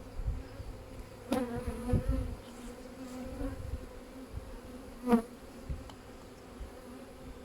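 Honeybees buzzing around an open hive, a steady hum, with a sharp knock about a second in and another about five seconds in.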